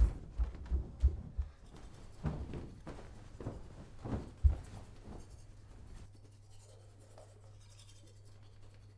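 Knocks, thuds and scraping of objects being handled and shifted about, as in someone rummaging through things while searching. The loudest thud comes about four and a half seconds in. After about six seconds the handling stops and only a faint steady low hum remains.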